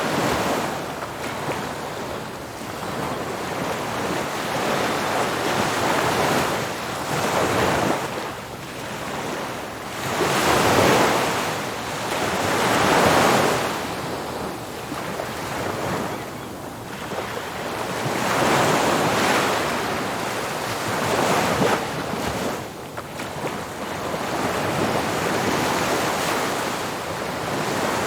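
Ocean surf: waves breaking on a beach in a continuous wash that swells and fades every few seconds, with the biggest surges a little after the middle. Wind on the microphone mixes in.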